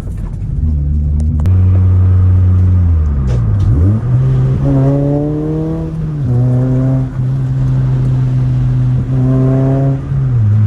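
Toyota Celica GT-S's 2ZZ-GE four-cylinder engine, fitted with an aftermarket intake, under hard throttle while driving. Its pitch climbs and drops back several times: about four seconds in, about six seconds in and near the end.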